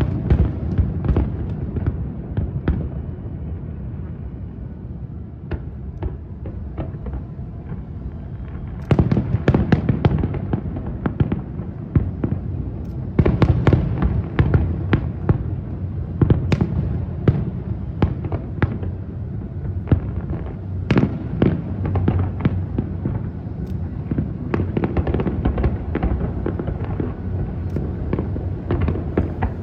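Aerial fireworks bursting in rapid volleys: sharp cracks and booms over a continuous low rumble. There is a lull of a few seconds early on, and dense barrages start again about nine and thirteen seconds in.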